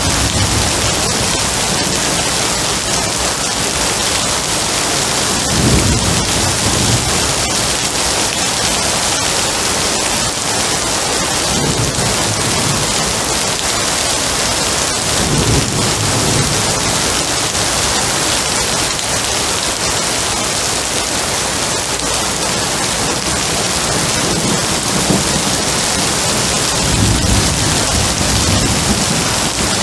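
Steady heavy rain hissing, with low thunder rumbling again and again, swelling every few seconds.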